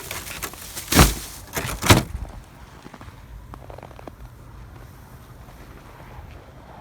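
A stuck door being forced: two loud bangs about a second apart, then a faint steady background.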